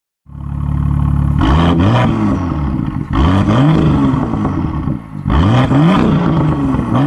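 Car engine idling, then revved three times, each rev rising and falling in pitch.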